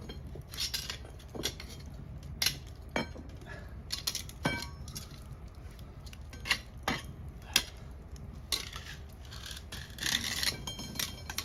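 Metal cookware and grill parts clinking and clanking as they are handled and set in place, with scattered sharp knocks, some ringing briefly, and a cluster of clinks about ten seconds in.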